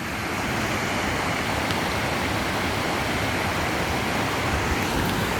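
Steady rushing of falling water from a waterfall or stream, an even hiss that swells up at the start and then holds level.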